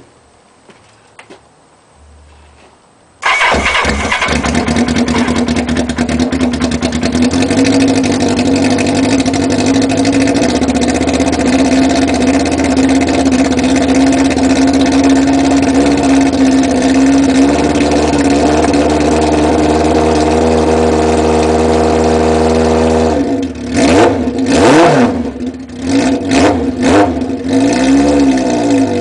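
Kawasaki KZ750 motorcycle engine firing through a Kerker exhaust with no muffler fitted, on its first start after sitting a couple of weeks. It catches suddenly about three seconds in, idles steadily and loudly, then is revved in several quick blips of the throttle near the end.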